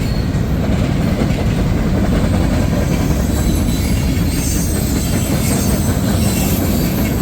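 Freight cars of a long CSX mixed freight train rolling past at track speed: a steady, loud rumble and rattle of steel wheels on rail. Faint high squealing tones join in from about four seconds in.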